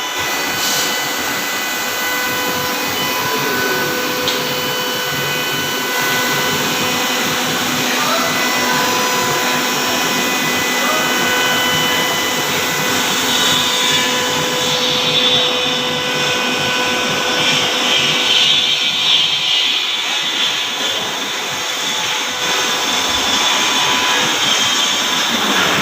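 CNC router spindle running at speed with a steady whine while its cutter routs a rounded cutout in a door, with a constant rushing noise behind it. The cutting turns harsher and brighter about halfway through.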